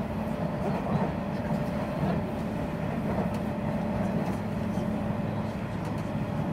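Steady running noise of a Nishitetsu electric commuter train at speed on an elevated track, heard from inside the passenger car: a constant rumble of wheels on rails with a steady even hum, no change in pitch.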